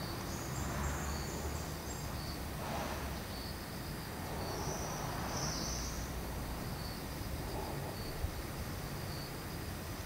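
Insects chirping in short, evenly spaced pulses about once a second, with a couple of longer, higher buzzes, over a steady outdoor hiss and low rumble.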